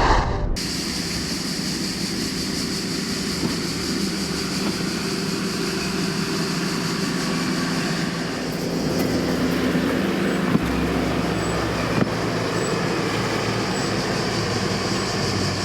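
Heavy diesel machinery running steadily on the railway siding, with light knocks about ten and twelve seconds in.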